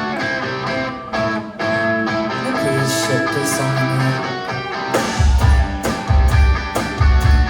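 Post-punk band playing live: guitar lines open the song, then a heavy low drum and bass beat comes in about five seconds in.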